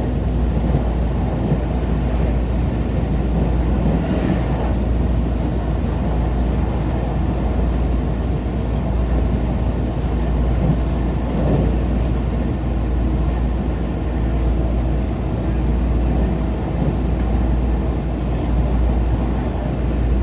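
Train running, a steady low rumble with faint steady humming tones above it.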